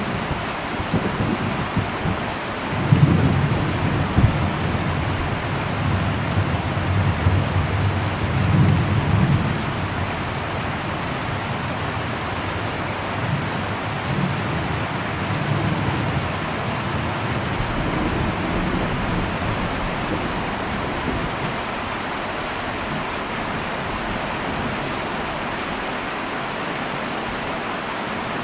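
Heavy rain drumming steadily on an old metal roof, with thunder rumbling low, strongest a few seconds in, then fading to fainter rumbles.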